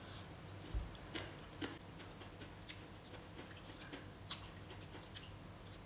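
Quiet eating of a chicken wing: soft chewing with a few scattered mouth clicks and smacks.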